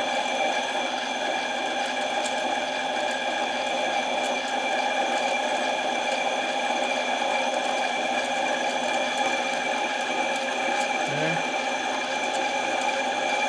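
Harbor Freight mini lathe running steadily under a slow cut, its motor and gear train giving an even whine of several steady tones.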